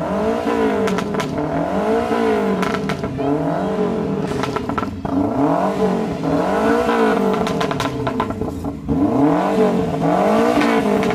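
Car engines revved over and over in a rev battle, the engine note rising and falling about once a second with the revs overlapping. Sharp pops come between them.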